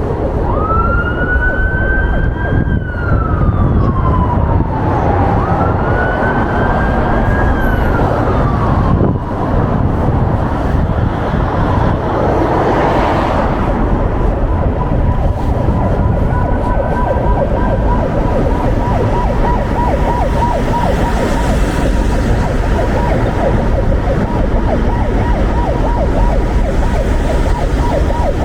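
Emergency vehicle siren wailing, rising and slowly falling twice, then switching about halfway through to a steady, rapidly pulsing tone. Steady wind and traffic rumble lie underneath.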